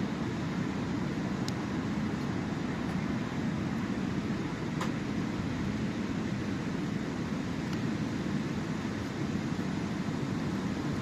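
Sea surf washing on the shore as a steady, even low rumble, with a few faint ticks over it.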